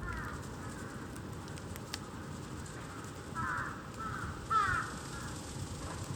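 A bird calling in short groups of harsh, sweeping notes, three or four times, over a steady low background hiss.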